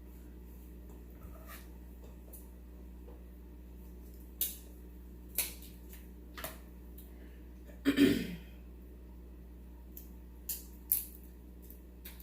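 Close-up eating noises from a seafood boil: sharp snaps and cracks of shellfish shells being broken open, scattered at irregular intervals, with one louder, longer crunching mouth sound about eight seconds in.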